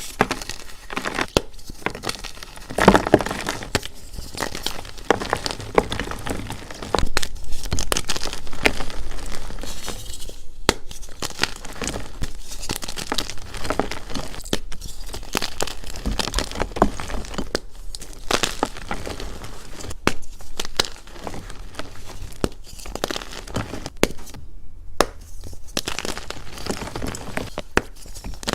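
Blocks of dyed gym chalk being crumbled and crushed: dry crunching and crackling broken by many sharp snaps. The sound drops out abruptly a couple of times where clips are cut together.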